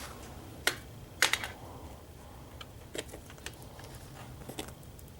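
Scattered sharp clicks and taps: a loud one just under a second in, a quick cluster of three soon after, then fainter ones every second or so.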